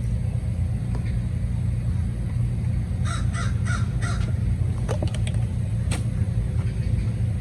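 A bird gives four short, harsh, caw-like calls about three seconds in, over a steady low rumble. A few sharp clicks follow around five to six seconds in.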